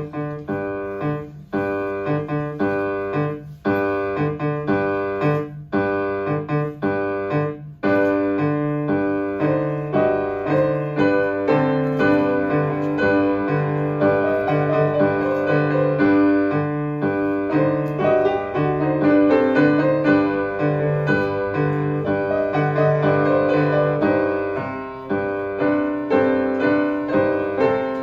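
Solo piano playing: detached repeated chords at first, then about eight seconds in a fuller, flowing passage over a repeating bass figure.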